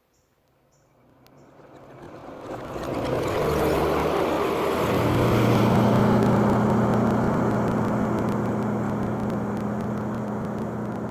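A vehicle engine running steadily with a low hum. It swells in over the first few seconds and starts to fade near the end.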